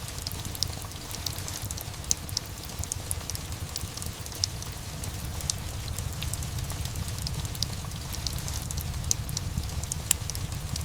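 Steady rain mixed with a crackling fireplace: a constant low rushing noise with many irregular sharp crackles and ticks.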